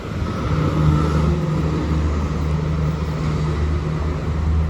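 Street traffic: a motor vehicle's engine running close by with a steady low hum, swelling slightly about a second in.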